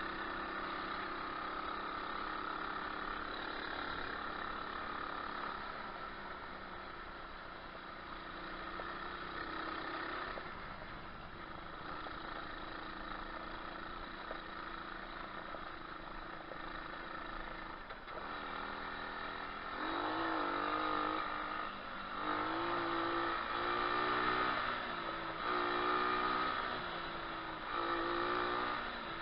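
125cc pit bike engine running while being ridden, at a fairly steady pitch at first. In the last third it revs up and down repeatedly, rising and falling in pitch.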